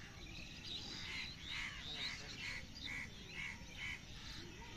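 Birds calling: a run of short, evenly spaced calls about two a second, among higher chirping and sweeping notes.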